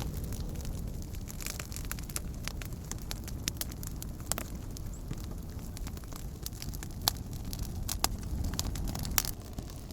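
Wood campfire burning: scattered crackles and several sharp pops over a steady low rumble.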